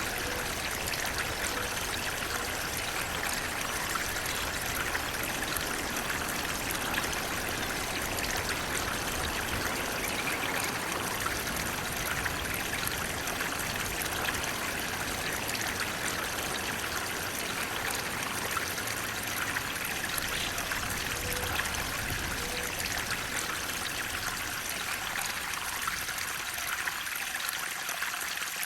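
Flowing water, a steady rushing with trickling over it, its lower rumble thinning out near the end.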